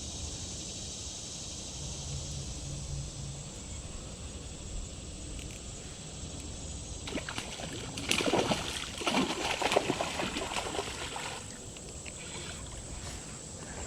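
Small creek flowing with a steady rush, then loud irregular splashing and sloshing about halfway through that lasts several seconds, as a hooked brown trout is fought in the shallow water.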